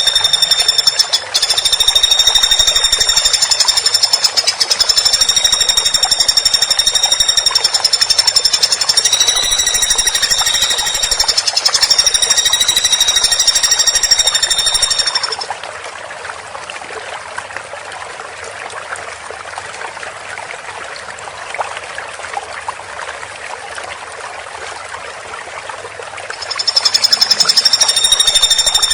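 Woodpecker giving a long, very rapid rattling trill of high notes, broken by brief gaps. It stops about halfway through, leaving a quieter background hiss, and starts again near the end.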